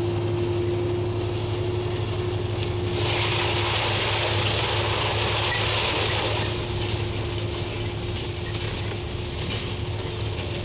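Diesel train running along the line with a steady engine hum and drone. From about three seconds in, a loud rushing hiss lasts some three seconds as an oncoming train passes on the next track.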